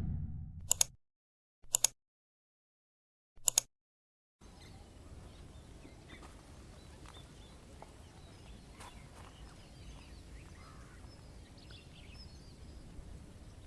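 The tail of an intro whoosh fades out, then three short, sharp bursts sound over dead silence. About four seconds in, a faint outdoor ambience fades up, with scattered small bird chirps over a steady hiss.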